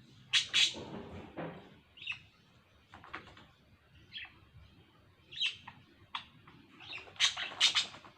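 Small birds chirping: short, sharp calls, loudest in a quick pair about half a second in and a burst of several near the end, with single fainter chirps every second or so between.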